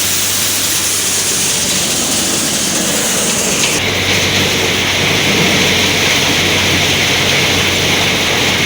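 A John Deere 5050D tractor driving an NVT thresher, running steadily with loud, even machine noise. About four seconds in, the sound shifts abruptly to a brighter hiss over a stronger low hum.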